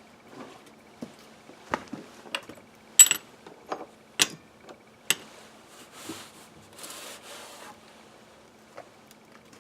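Small metal carburetor parts and hand tools being handled on a workbench: scattered clicks and clinks, the loudest a bright metallic clink about three seconds in, then a soft scraping noise for a couple of seconds past the middle.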